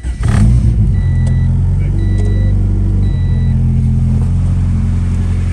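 Turbocharged Honda B16 engine in an EG Civic catching and settling into a steady idle, with a chime beeping three times, about a second apart, early on. It runs without the earlier tapping now that the valve cover has been pushed clear of the cam gear bolts that were rubbing it.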